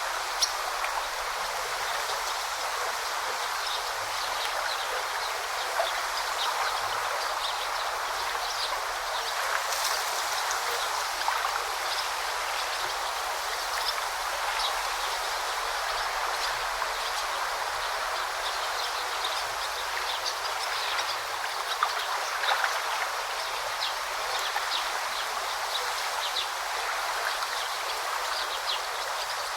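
Forest river or brook babbling steadily, with many short high-pitched splashes and trickles scattered over the rush of the water.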